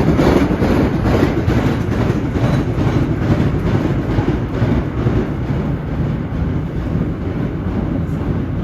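Vintage R1-9 subway cars running on the track, with a steady rumble and repeated clacking of the wheels over rail joints.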